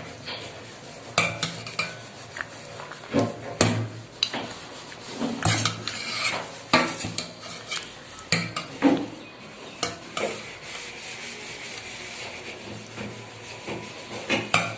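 A metal utensil stirring and scraping in a cooking pot, with irregular clinks and knocks against the pot.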